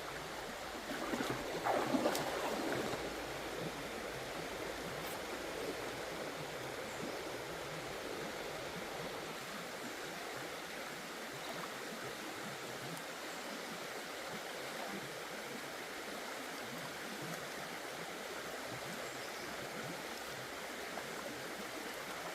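Steady rush of flowing stream water, with a brief louder burst of noise about one to three seconds in.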